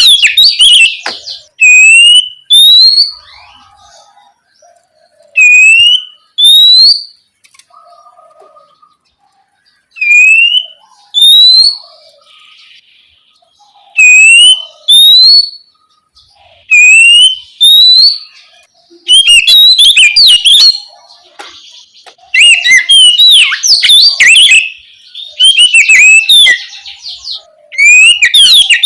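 Oriental magpie-robin singing loudly: clear rising whistles, mostly in pairs with short gaps, then a busier run of rapid varied notes from about two-thirds of the way through.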